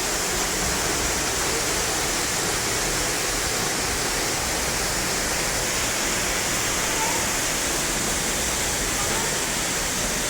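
Steady, loud rushing of a waterfall, water pouring and splashing without a break.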